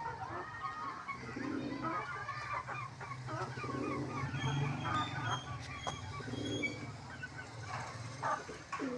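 A crowd of domestic birds calling at once: a low call repeating every second or two under many short, higher chirps and calls, over a steady low hum.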